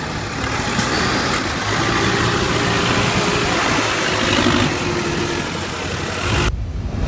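Heavy vehicle noise, like a truck running, as a steady loud rush. About six and a half seconds in, the sound changes abruptly to a duller low rumble.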